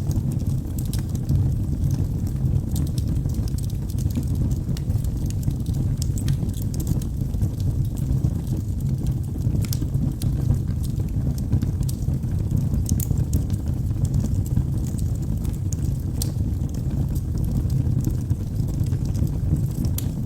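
Log fire burning in a fireplace: a steady low rumble of flames with scattered sharp crackles and pops at irregular moments.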